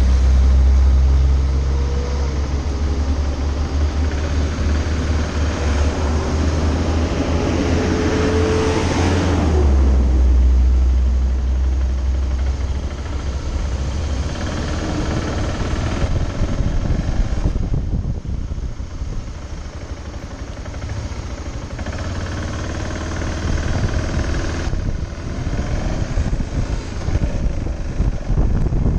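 BMW G650GS motorcycle's single-cylinder engine idling steadily in stop-and-go traffic, then running at low speed as the bike creeps forward, with other traffic around it.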